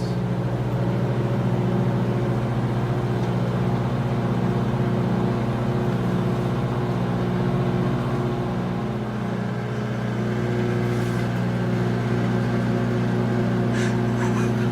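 Sharp Carousel countertop microwave oven running: a steady low electrical hum, with a couple of faint ticks late on.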